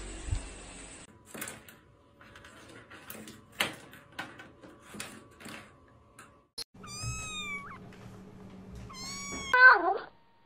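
A cat meowing: a high arching call about seven seconds in, then another that runs into a loud meow falling in pitch near the end. Before the calls come scattered light knocks and taps.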